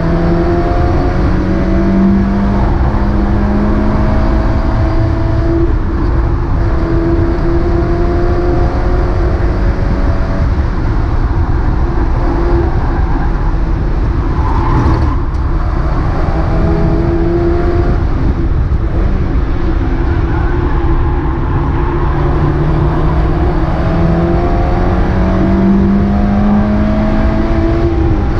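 Mazda MX-5 race car's four-cylinder engine at racing speed. The revs climb and drop back with gear changes several times over, and there is a brief sharp noise about halfway through.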